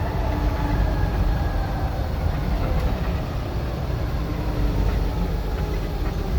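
Scania N94UD OmniDecka double-decker bus under way, a steady low engine and road rumble with faint whining tones above it.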